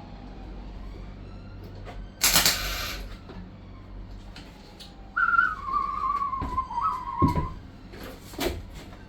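A person whistling a few notes, starting high and stepping down to a held, wavering note, over the second half. Around it are sharp workshop knocks and a short loud hiss a couple of seconds in.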